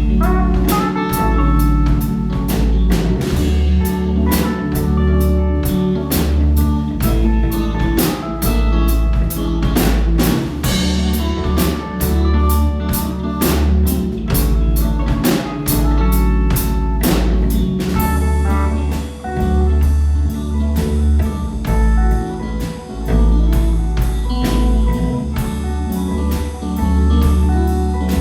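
Live band playing a song: a drum kit keeps a steady beat with cymbals over low, sustained notes. About two-thirds of the way in, the bright cymbal wash drops away.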